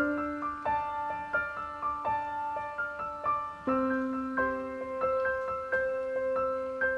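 Background music: a gentle solo piano melody, notes struck about every half second over held low notes.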